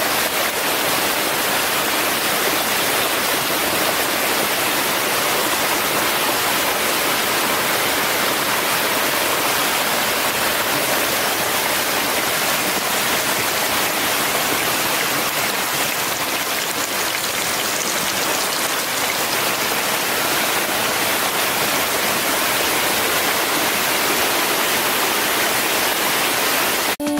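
A steady, even rushing hiss, like heavy rain or running water, unchanging throughout.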